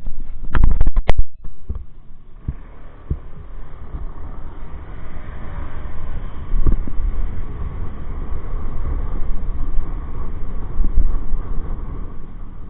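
Motorcycle on the move heard through a rider-worn microphone: a steady low rumble with wind noise over it. A cluster of loud knocks comes in the first second or so.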